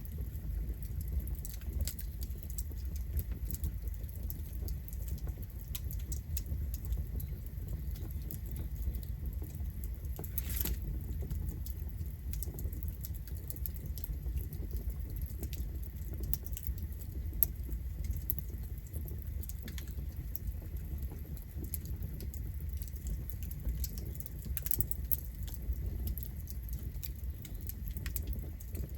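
Campfire burning: a steady low rumble of the flames with frequent small crackles and pops of burning wood, and a few louder pops.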